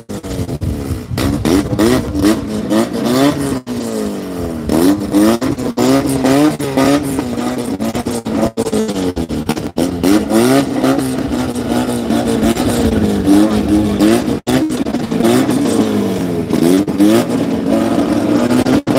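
Car engine revved over and over while waiting at a drag-racing start line, its pitch climbing and dropping every second or two, over the steady note of an engine idling.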